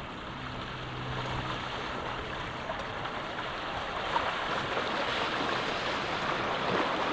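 Water rushing and wind on open water, a steady hiss that grows slowly louder, with a faint low hum in the first second or so.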